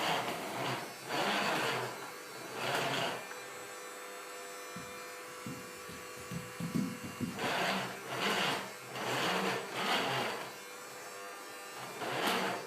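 Small vacuum cleaner's motor running with a steady hum, broken by repeated half-second swells of whooshing air. A cluster of irregular knocks falls in the middle.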